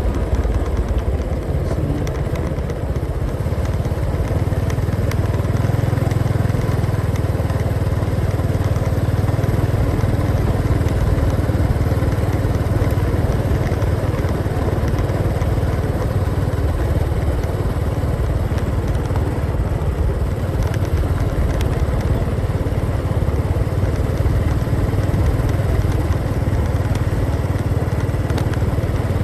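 Motorcycle engine running steadily under way, a constant low rumble with no revving or breaks.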